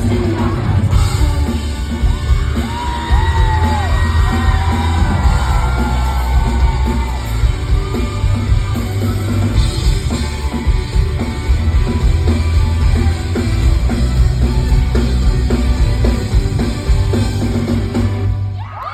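Loud live rock band playing, with heavy bass and drums under yelled and sung vocals; the music stops abruptly near the end.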